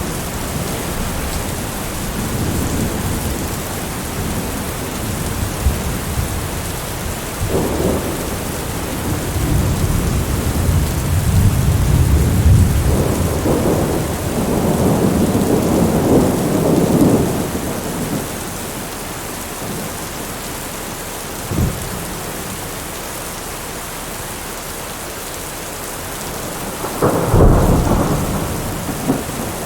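Steady heavy rain with thunder: long low rumbles build and roll over the middle, and near the end a sharper crack of thunder rumbles off.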